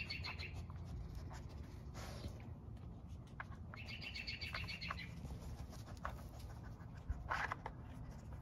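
A bird's rapid chirping trill, twice: once right at the start and again about four seconds in. Between them come faint clicks from the plastic lids of a dog brick treat puzzle as a dog noses at it, with a sharper clatter about seven seconds in, over a steady low background rumble.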